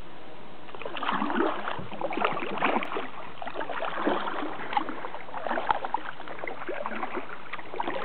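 Kayak paddling: water splashing and dripping from the paddle blades in quick, irregular strokes, starting about a second in.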